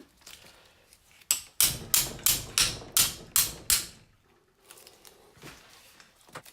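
A run of about eight sharp knocks, roughly three a second, starting about a second in. They are typical of tapping a part of the airhead engine loose with a hammer. Faint handling noises follow.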